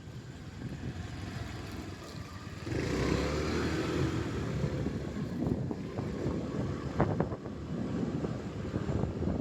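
Motorcycle riding along a road: the engine runs under wind rushing over the microphone, growing louder about three seconds in.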